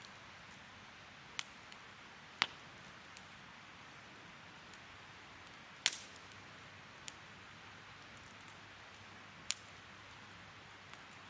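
Wood campfire burning: a soft steady hiss with sharp pops and snaps at irregular intervals, about seven in all. The loudest come about two and a half and six seconds in.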